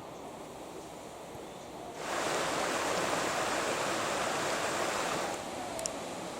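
Steady rush of falling water from a waterfall on a mountain stream. It jumps suddenly louder and fuller about two seconds in, then drops back to a lighter rush near the end.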